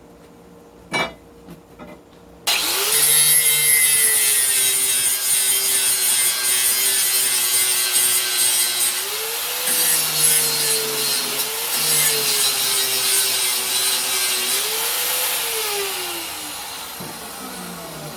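An electric grinding tool switches on about two and a half seconds in, its motor coming up to speed, and grinds the steel of a meat cleaver, taking the burr off the edge. The motor's pitch sags and recovers several times as the blade is pressed in. Near the end it is switched off and winds down.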